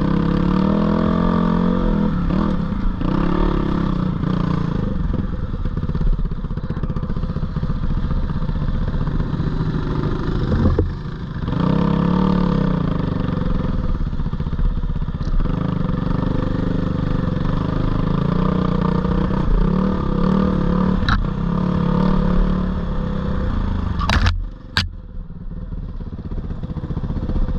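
Four-stroke GPX 450R dirt bike engine revving up and falling back over and over while riding. Near the end come two sharp knocks, and the engine sound drops off.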